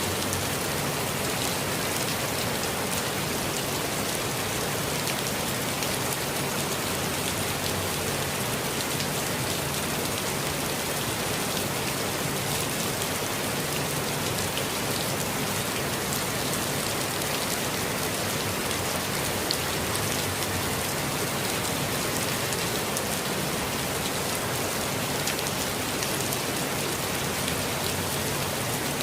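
Steady rainfall in a forest: an even hiss of rain with fine scattered drop ticks, unchanging throughout.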